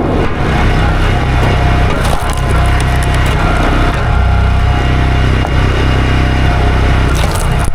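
Two-stroke chainsaw running steadily under load, its chain cutting through a wooden tree stump.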